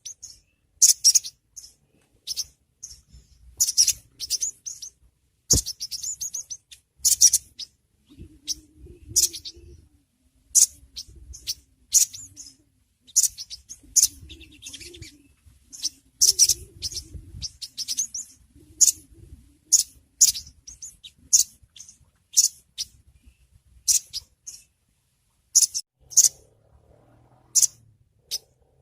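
Little spiderhunter (sogok ontong) calling: short, sharp, high-pitched chirps repeated about one to two times a second, in uneven bursts.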